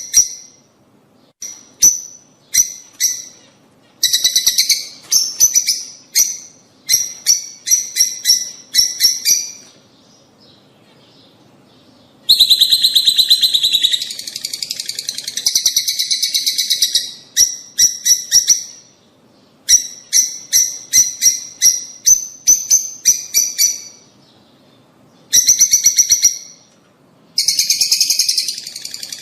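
Lovebirds calling: strings of sharp, high-pitched chirps in bursts, with a long run of rapid, dense chattering in the middle.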